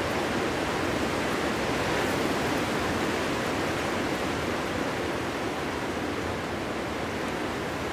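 Winter wind blowing steadily, an even rushing noise with no distinct gusts or howls.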